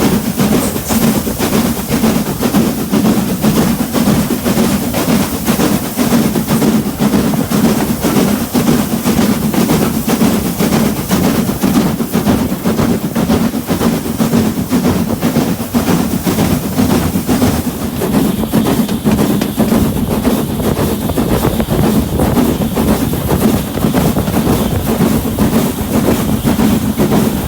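Passenger train running along the track: a steady low rumble from the wheels and running gear with a continuous fine rattle of wheels on rails.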